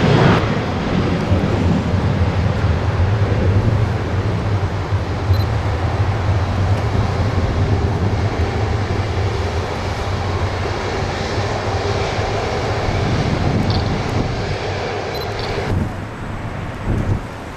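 Airbus A330-343X's Rolls-Royce Trent 700 turbofans at takeoff power: steady, loud jet noise with a heavy low rumble, easing somewhat near the end.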